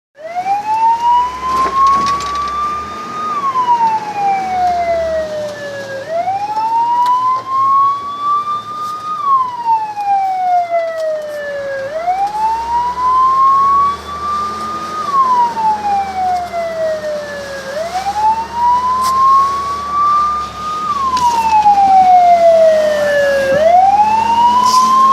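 Fire siren wailing in slow cycles: each rise takes about three seconds and each fall about three, repeating over and over, sounding a fire brigade turnout.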